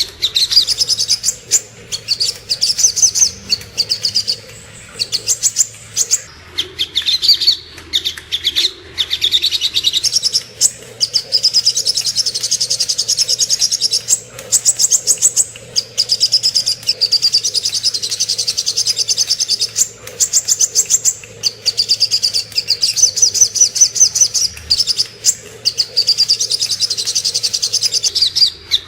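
Spiderhunter (sogok ontong) singing: long runs of rapid, high-pitched chirps repeated many times a second, broken by short pauses.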